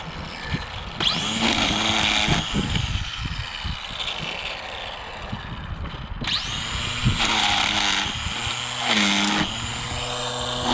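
String trimmer (weed whacker) engine running and cutting weeds, revving up about a second in and again around six seconds, easing off in between.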